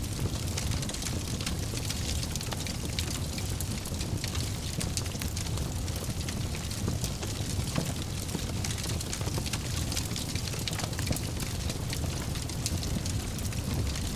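Wood fire crackling in a fireplace: many small, irregular snaps and pops over a steady low rumble.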